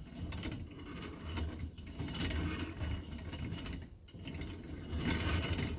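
Hand-cranked pillar drill being turned by its handle: its gears rattle and click in spurts, with two brief dips.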